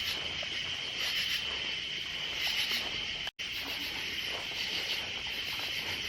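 Chorus of insects at dusk, a steady high-pitched buzzing trill that cuts out briefly about halfway through.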